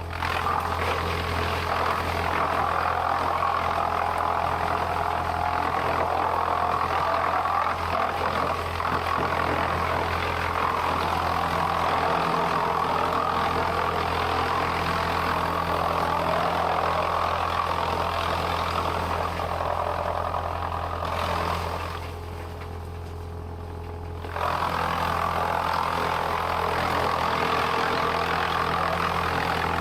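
Heavy sawmill machinery running: a steady low engine hum under a louder, noisy working sound. The noisy sound drops away for about three seconds roughly two-thirds of the way through, then returns.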